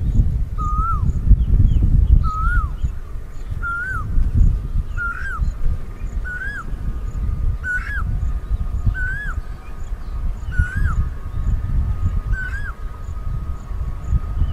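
A bird calling one short note over and over, each rising then dropping sharply, about once every second and a half, over a low rumble. A faint steady whine joins about five seconds in.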